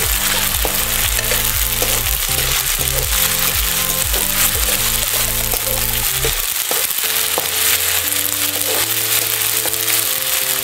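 Onions and ginger-chilli-garlic paste sizzling in hot mustard oil in a metal kadhai, with a spatula stirring and scraping against the pan. Background music plays underneath.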